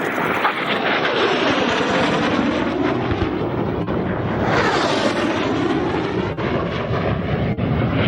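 Jet aircraft flying past low overhead: loud, continuous engine noise whose pitch sweeps down and then up again as the aircraft pass.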